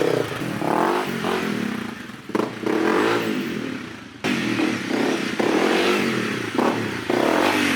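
Dual-sport motorcycle engine revving up and down repeatedly as the throttle is worked, the pitch rising and falling several times, dropping off and coming back suddenly about four seconds in.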